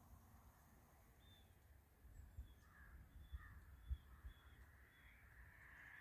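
Faint bird calls: a run of about six short, high, evenly spaced notes, with a few fainter lower chirps, over a low rumble with a few soft thumps.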